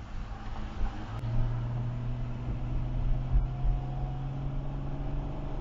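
Car engine heard from inside the cabin, pulling away: a low drone comes in about a second in and climbs slowly in pitch as the car gathers speed, over steady road noise.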